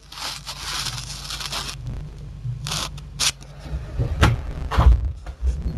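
Paper booklets and cardboard packaging being handled: a long rustle of paper, then a few short rustles and several light knocks.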